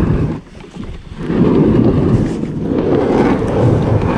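Strong wind buffeting the microphone: a loud, low rumbling roar in gusts, easing briefly about half a second in, then rising again.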